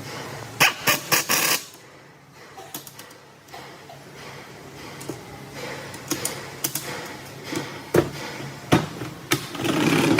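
Metal tools and engine parts knocking and clicking by hand: a quick run of four or five sharp knocks near the start, then scattered taps and clicks, over a steady low hum.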